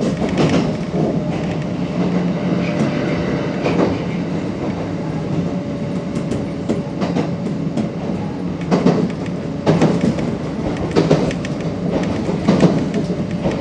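Kintetsu Ikoma Line electric train running along the track, heard from the driver's cab: a steady rumble with a low hum, and irregular clacks as the wheels pass over rail joints.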